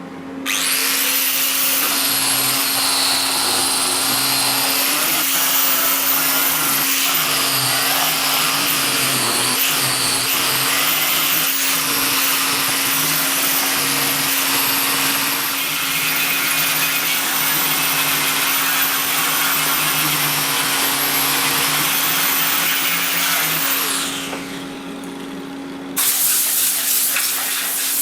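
Angle grinder with a flap disc grinding old fiberglass resin: a steady motor hum under a loud, high-pitched grinding whine. The grinding eases off near the end while the motor keeps spinning, then starts again abruptly.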